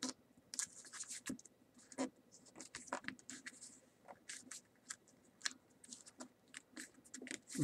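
A sheet of paper being folded and creased by hand: faint, irregular crinkles and rustles with a few sharper crackles.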